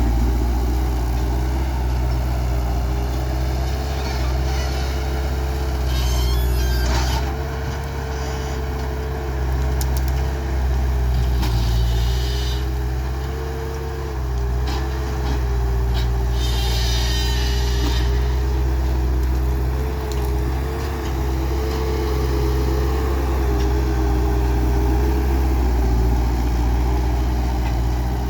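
Skid steer loader's diesel engine running steadily, its pitch wavering a little with load, with a few short bursts of hiss about six, twelve and seventeen seconds in.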